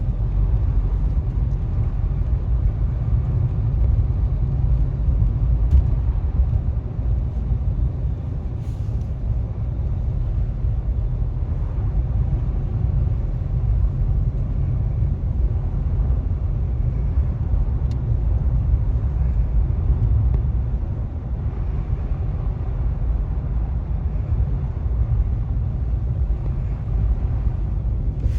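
Steady low rumble inside a moving car's cabin: engine and tyres running on a snowy highway.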